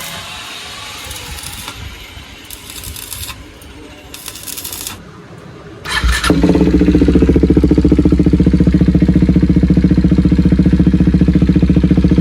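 KTM Duke 390 single-cylinder engine started about six seconds in, then idling loudly and evenly, after a stretch of on-off hissing. It is being run to check a welded repair of an exhaust leak at the pipe joint, which still leaks a little from one side.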